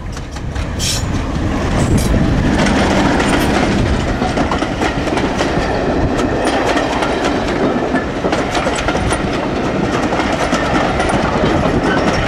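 A Class 31 diesel locomotive passing close by at speed, its engine loudest in the first two seconds, then its train of coaches rolling past with wheels clacking over the rail joints.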